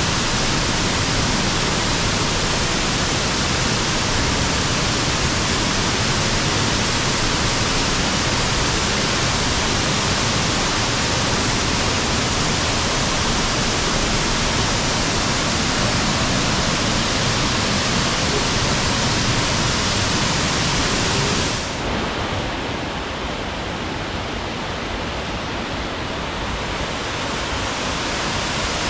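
Waterfall pouring into a basalt cave: a loud, steady rush of falling water. About three-quarters of the way in, it drops suddenly to a softer, duller rush.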